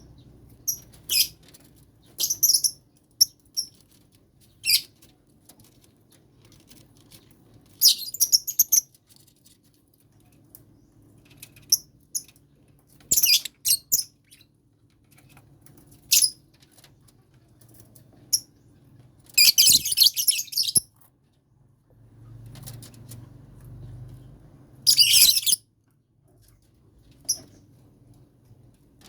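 Several lovebirds in a colony cage chirping in short, high-pitched calls. The calls are scattered through the stretch, with a few denser bursts of chatter, the longest about two-thirds of the way through.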